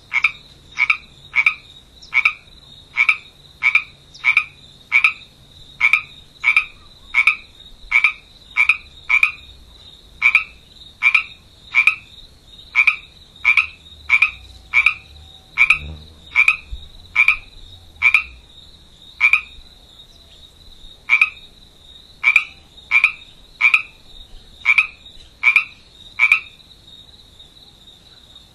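Rhythmic animal calls: a short call repeated about twice a second, pausing briefly a couple of times, over a steady high-pitched whine.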